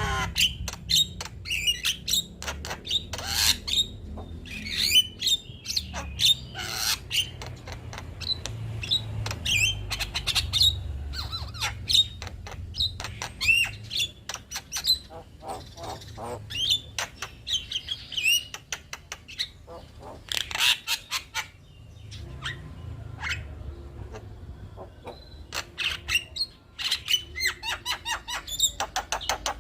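Male Javan myna (jalak kebo) singing a rapid, varied run of squawks, whistles and chirps, with other birds calling in with it.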